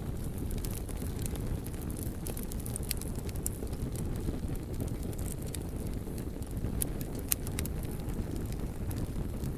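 Fire burning with a steady low rumble and scattered sharp crackles and pops, one louder pop about three-quarters of the way through.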